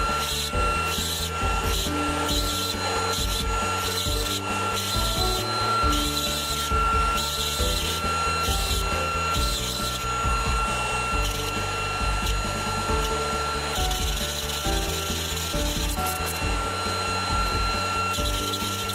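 CNC router carving wood, a steady rasping cut with a constant high tone running through it, under background music with a steady beat.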